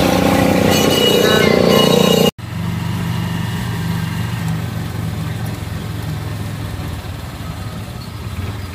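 Motorcycle engine of a passenger tricycle running, heard from inside the sidecar. The sound breaks off abruptly about two seconds in, then a quieter, steady low engine drone continues and slowly eases.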